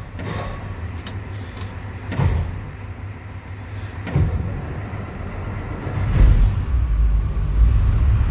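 Old International 9-liter diesel in a truck being cold-cranked on the starter, with two knocks along the way, then catching about six seconds in and running, much louder and deeper. A cold start on an engine with no glow plugs or block heater that has sat for a while.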